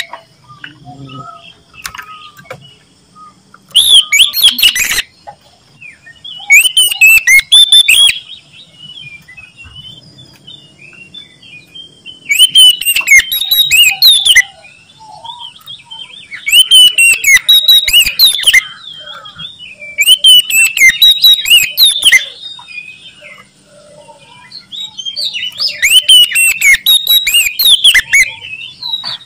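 Oriental magpie-robin (kacer) singing loudly. It delivers six phrases of rapid, varied whistles and trills, each a couple of seconds long, with softer twittering in the gaps between them.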